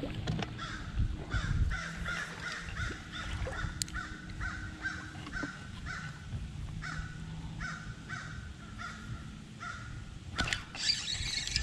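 A bird calling over and over, a short harsh note repeated about twice a second, over a faint low steady hum.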